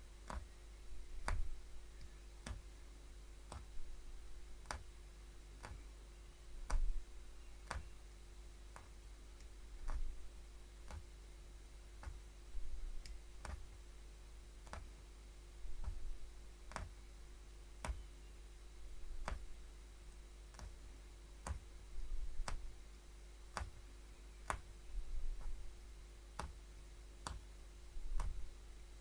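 Hollow punch needle stabbing through fabric again and again, a sharp click roughly once a second, over a faint steady hum.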